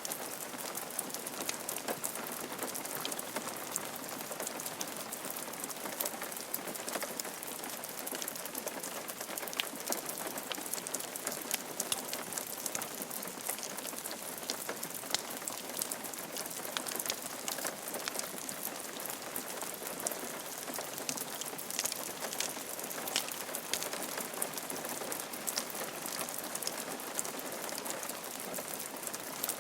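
Steady rain falling on a roof, a dense even hiss with many small drop ticks.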